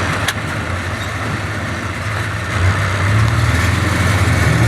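Motor vehicle engine running with road noise, a steady low hum that grows louder a little past halfway through. A brief click sounds just after the start.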